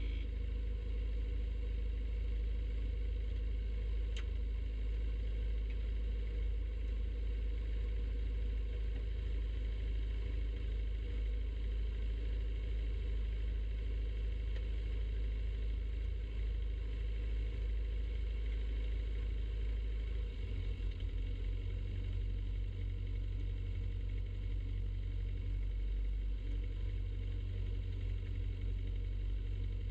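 Piper Super Cub floatplane's piston engine running steadily in a low, even drone. About twenty seconds in the deep low rumble grows fuller and holds.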